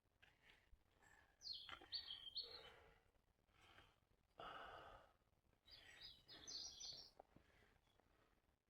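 Faint bird calls: two short runs of high, stepped chirping notes, about two seconds in and again near seven seconds, among soft rustling noise.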